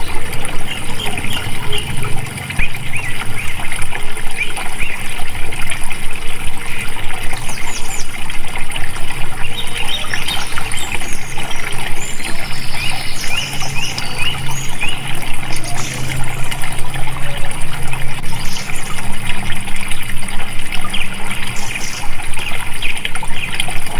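Water flowing and trickling steadily, like a small stream over rocks, with short high bird chirps scattered through it.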